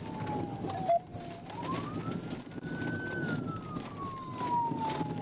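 Police car siren on a slow wail: falling, rising again from about a second and a half in, then falling, over the rumble of engine and road noise. A short sharp click about a second in.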